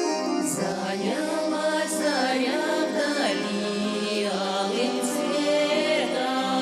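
A Russian folk song sung by a group of voices to orchestra accompaniment. The voices come in about half a second in over the instrumental introduction.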